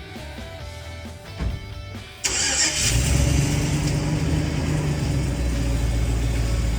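Background music for about two seconds, then a vehicle engine is suddenly cranked and starts, settling into a steady idle.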